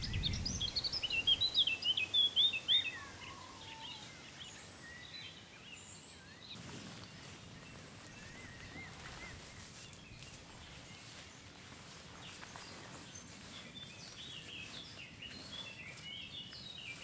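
Songbird singing in quick, varied chirps, loudest in the first three seconds, then fainter birdsong over a steady outdoor background, with the chirping picking up again near the end.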